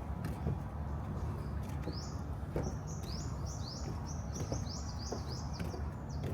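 A bird calling in a quick series of short rising chirps, about three a second, starting about two seconds in and stopping just before the end, over a steady low rumble.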